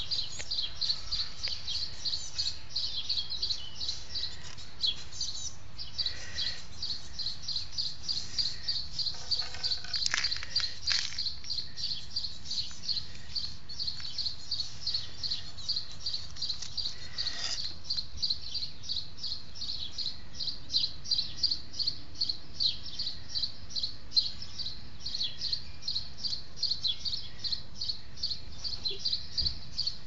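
Small birds chirping continuously: a rapid, even run of short high chirps, several a second, with a few lower calls mixed in.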